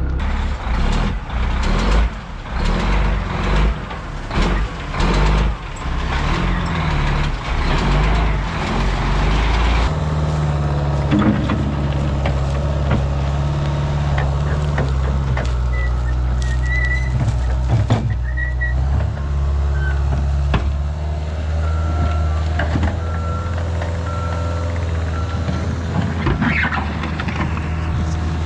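Dump truck's diesel engine running, rough and uneven for the first ten seconds or so and then steady, with a backup alarm beeping repeatedly in the last few seconds as the truck reverses.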